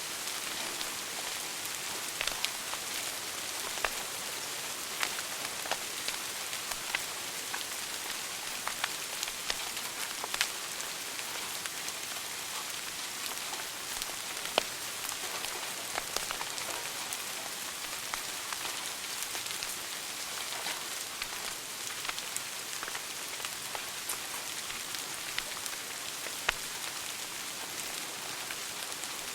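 Wood fire burning in a fireplace: a steady hiss with irregular crackles and pops, and now and then a louder single snap.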